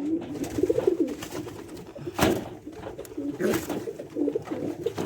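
Several domestic pigeons cooing over one another, with two brief rustling noises a little over two and three and a half seconds in.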